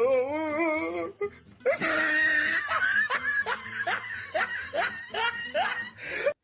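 A woman laughing: a wavering drawn-out voiced sound, then a sudden breathy burst about a second and a half in, then a run of short rising 'ha' sounds about two or three a second.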